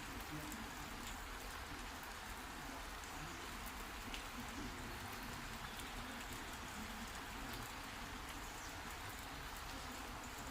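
Steady rain falling: an even hiss with scattered drops ticking on surfaces.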